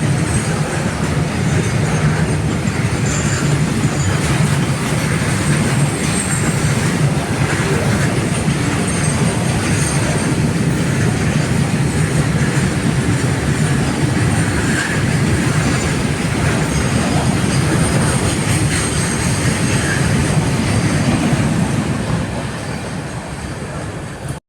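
Train running over the rails, a steady rumble of wheels on track with a faint high wheel squeal, fading away near the end.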